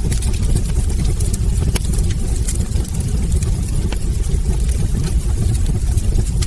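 Wood fire burning in a fireplace: a steady low rumble of flames with scattered sharp crackles and pops from the logs, several a second.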